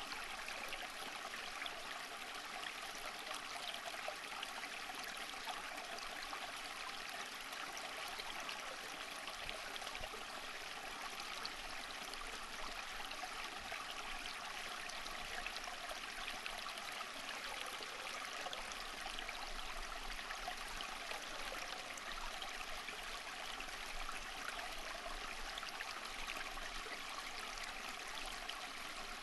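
Water running steadily, as in a stream, a constant rushing with dense fine splashing and bubbling throughout.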